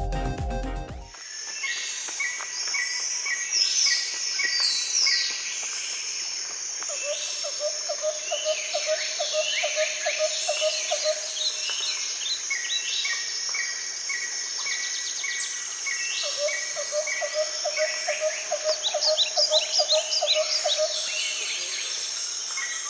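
Background music cuts off about a second in, giving way to a chorus of wild birds singing. The chorus has runs of short repeated notes, a steady high-pitched note, and twice a lower rapid trill lasting a few seconds.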